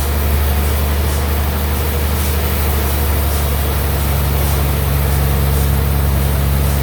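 Sawmill bandsaw running with a steady deep hum and a constant hiss.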